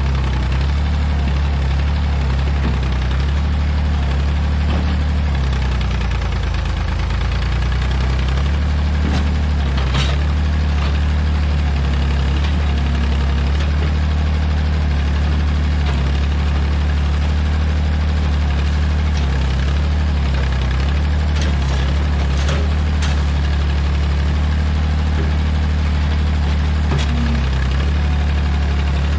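Old Massey Ferguson backhoe's engine running steadily under a constant throttle, with a few sharp knocks scattered over the top.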